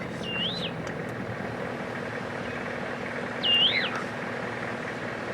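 A bird calls twice with a short clear whistle, each note holding and then swooping up and back down; the second call, about three and a half seconds in, is the louder. Under it runs a steady low hum.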